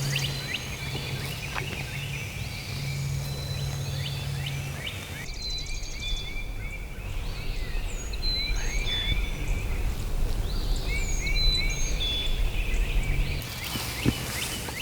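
Dawn chorus of songbirds, many short chirps and trills, over a low steady hum.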